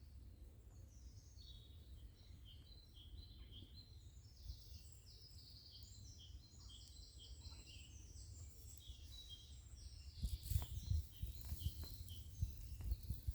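Small bird singing a long run of short, quick chirping notes. About ten seconds in, faint clicks and knocks join it.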